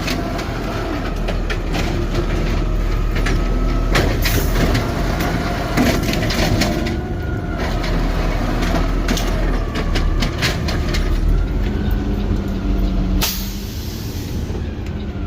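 Side-loader garbage truck's automated arm lifting and emptying a trash can into the hopper: the CNG engine runs under a wavering hydraulic whine, with knocks and clatter from the bin and the falling trash. Near the end comes a short burst of hissing air.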